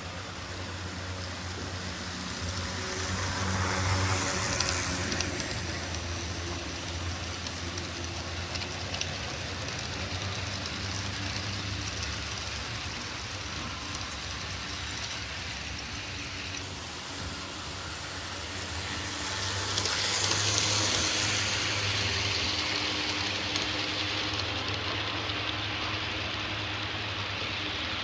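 HO-scale model trains running on track: a steady low motor hum under the rattle of small wheels on rail. The rattle grows louder twice, a few seconds in and again about two-thirds of the way through, as trains pass close by.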